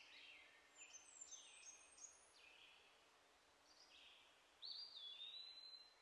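Faint birdsong: a string of quick high chirps and falling notes, then a longer, louder whistled note near the end.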